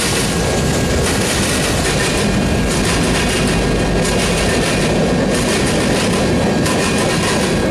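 Freight train passing close: the mid-train EMD SD70ACe distributed-power locomotive goes by at the start, then covered hopper cars roll past with a steady rumble of wheels on rail and clicking over the rail joints.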